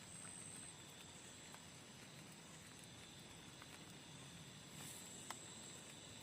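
Near silence: a faint steady hiss with a thin, high, steady tone, scattered soft ticks and one sharper tick about five seconds in.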